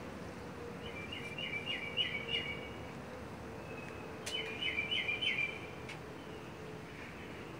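A bird calling: two short runs of quick, repeated chirps, about five notes each, the first about a second in and the second just past four seconds, over a faint steady hum.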